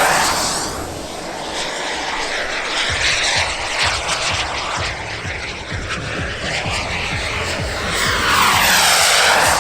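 Radio-controlled model aircraft flying low past the crowd twice. The engine sound is loud at the start and fades as the plane moves away, then swells again to a second close pass near the end.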